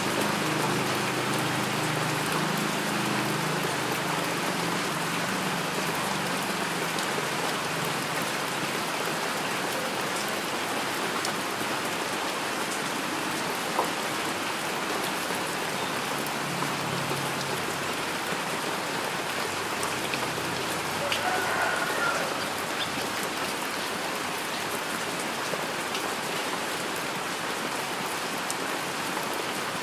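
Steady heavy rain falling, a dense even hiss with scattered sharp drop ticks.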